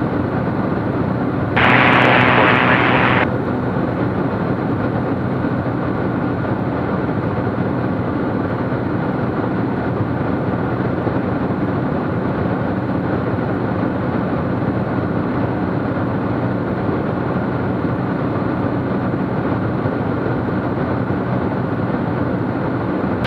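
Cessna T210's turbocharged six-cylinder engine and propeller droning steadily in flight. About two seconds in, a louder burst of hiss lasts a second and a half.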